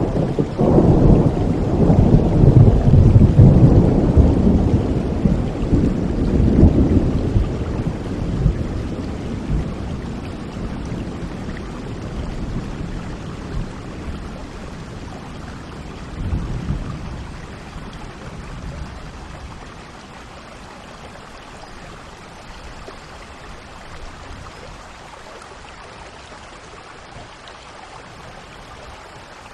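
A long roll of thunder over steady rain: the rumble is loud for the first several seconds, then fades away, with a smaller rumble about halfway through. The rain goes on as an even hiss after the thunder dies.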